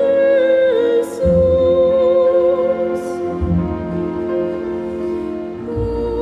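A young woman singing an operatic aria in lyric style, holding long sustained notes over a symphony orchestra's accompaniment.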